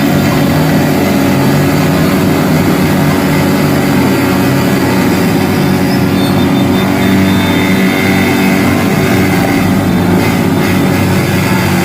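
Motorcycle engine running loudly at a fairly steady pitch.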